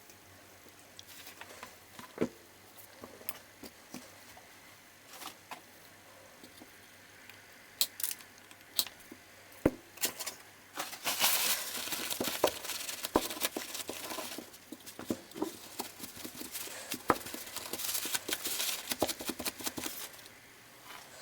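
Hand work on a circuit board at a workbench: scattered small taps and clicks of tools and parts, with stretches of scratchy rustling about halfway through and again near the end.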